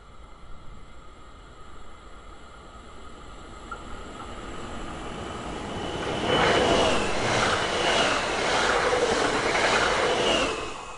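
Electric multiple-unit train approaching and passing close by at speed: a rising rush that becomes a loud run of wheels on rail with a regular rhythmic clatter and a steady high tone, dropping away sharply near the end.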